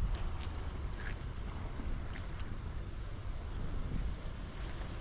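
Steady, unbroken high-pitched chorus of insects such as crickets, with a low rumble underneath and a few faint ticks.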